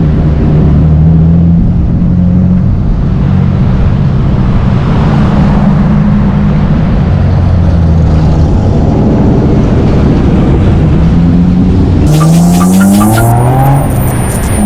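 Car engine and exhaust pulling along at low revs with the pitch wavering, then revving hard near the end, the pitch climbing steeply as the car accelerates.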